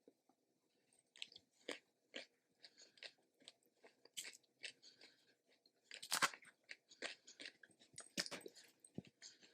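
Close-up chewing of a bite of Greek salad: irregular crisp crunches, a few a second, the loudest about six seconds in.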